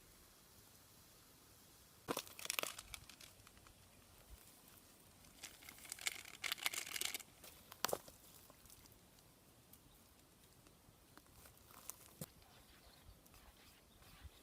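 Several short bursts of crinkling and crackling over a faint background: one about two seconds in, a longer one in the middle, and smaller ones later.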